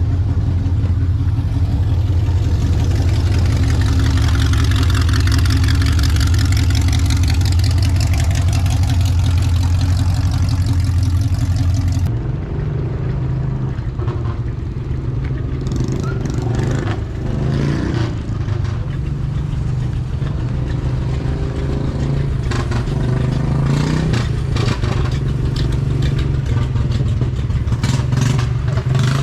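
Vehicle engines running with a steady low hum. About twelve seconds in the sound cuts abruptly to a different engine note, with scattered clicks and knocks over it.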